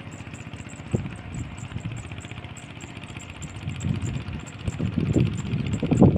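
CC 201 diesel-electric locomotive engine running steadily, with a faint high ticking repeating several times a second. Louder, uneven low rumbling builds over the last couple of seconds.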